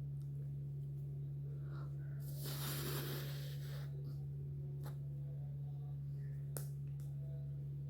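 A steady low hum, with a brief noisy rush about two and a half seconds in and two light clicks later on.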